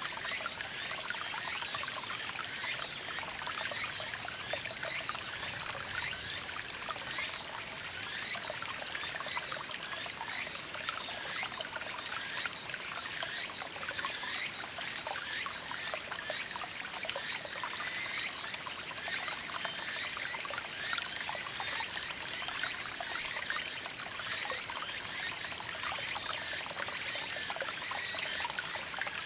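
Small mountain stream babbling and trickling steadily over stones, with a steady high-pitched hum above the water.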